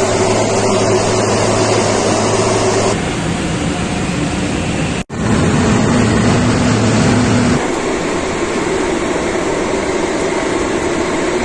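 Steady drone of the Be-200 amphibious aircraft's turbofan engines, with abrupt changes in tone where the footage cuts and a momentary break about five seconds in.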